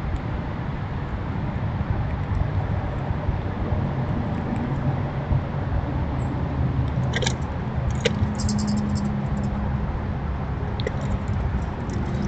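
Steady low rumble of distant traffic, with a few small clicks and crunches around the middle and again near the end.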